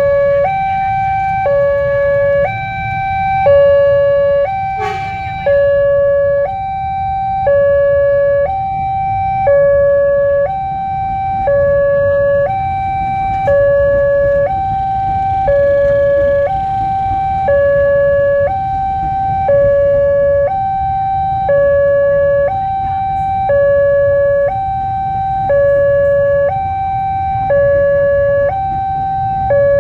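Railway level crossing warning alarm sounding a steady two-tone electronic signal, switching between a higher and a lower tone about once a second, over a low rumble.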